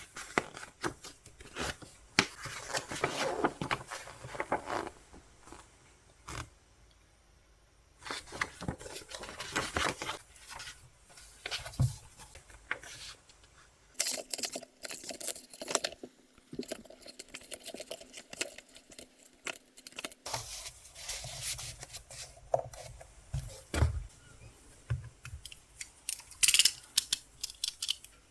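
Album packaging being opened and handled by hand: plastic and paper tearing and rustling, with scattered sharp clicks and taps in irregular bursts.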